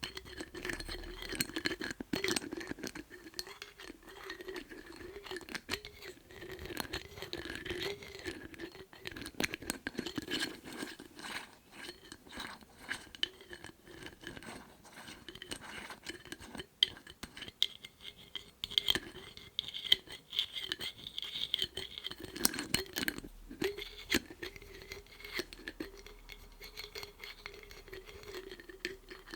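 Lids being handled, tapped and scratched in quick, irregular clicks and taps.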